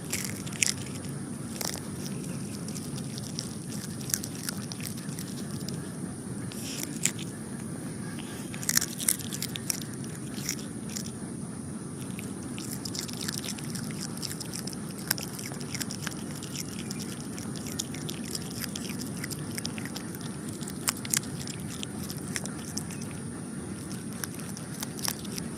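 Otter chewing and biting its food, with irregular wet crunches and sharp clicks scattered throughout.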